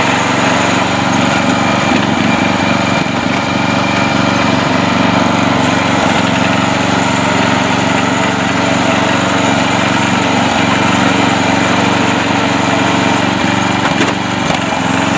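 Mastercraft lawn tractor's engine running steadily and loudly under load while the tractor is driven in mud.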